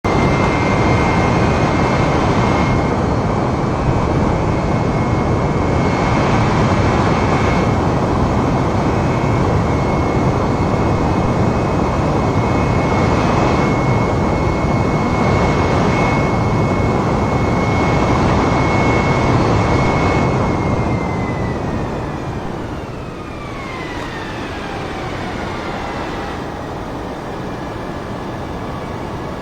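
Jet airliner's engines and rushing air during a landing, loud and steady with a high engine whine. About two-thirds of the way through, the whine glides down in pitch and the noise drops as the engines spool down.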